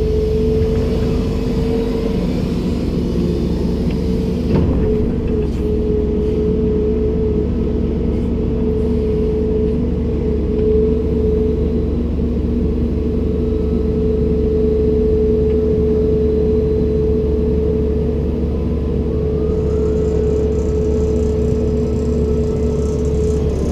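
Komatsu PC290-10 excavator's diesel engine running steadily, with a constant high whine over a low rumble and a single sharp knock about four and a half seconds in.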